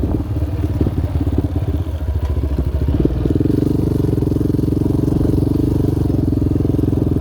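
Yamaha Raptor 700R's single-cylinder four-stroke engine running as the quad is ridden, its note growing louder and steadier from about three seconds in as it pulls harder.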